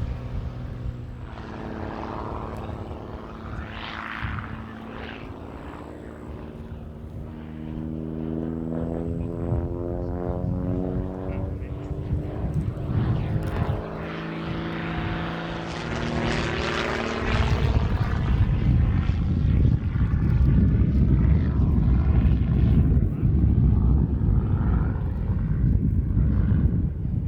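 Pitts Special aerobatic biplane's piston engine and propeller running, its tone sweeping up and down in the middle. About two-thirds of the way through it becomes much louder and rougher.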